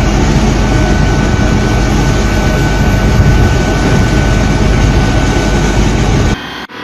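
Loud, steady vehicle noise with a low engine hum under a broad rushing sound, cutting off suddenly near the end.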